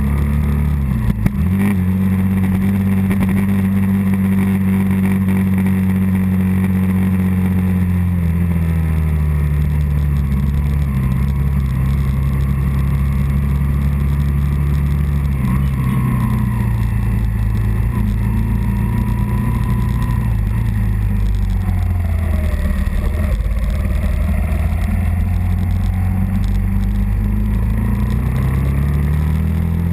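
Early-1980s Suzuki 125 motorcycle engine running under way, heard from on the bike. Its pitch falls about eight seconds in and again about sixteen seconds in, then rises near the end. There is one short knock about a second in.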